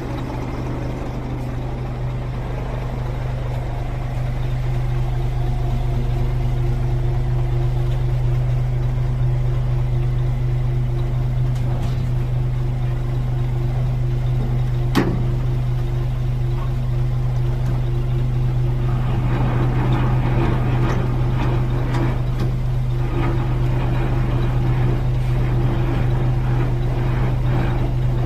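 Scania truck's diesel engine idling steadily. There is a single sharp click about fifteen seconds in, and from about nineteen seconds on a layer of metallic rattling and light knocks.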